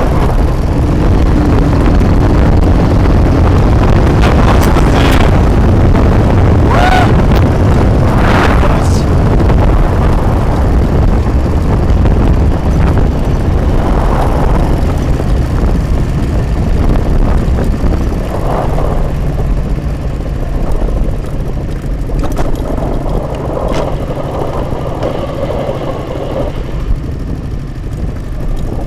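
Dnepr MT-10-36 sidecar motorcycle under way, its flat-twin engine running beneath heavy wind buffeting on the microphone, the loudness easing somewhat in the last third.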